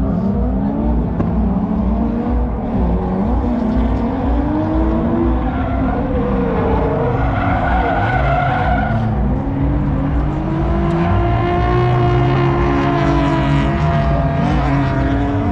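A car drifting: its engine revving up and down repeatedly while the tires squeal and skid.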